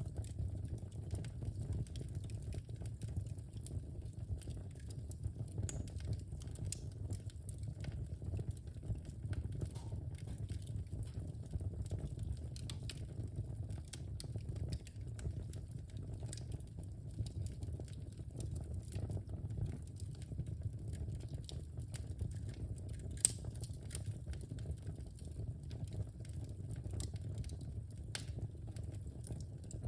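Wood fire burning in a fireplace: a steady low rumble of the flames with frequent small crackles and pops of the logs, one sharper pop a little over twenty seconds in.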